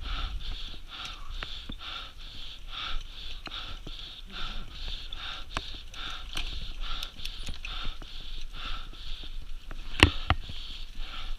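A person breathing hard and rhythmically, about two to three breaths a second, close to the microphone, with a few sharp knocks, the loudest about ten seconds in.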